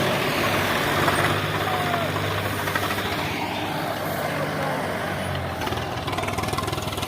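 Tractor engine running steadily under load as it drives a mini combine harvester cutting paddy, a low engine hum under broad machine clatter that grows gradually fainter.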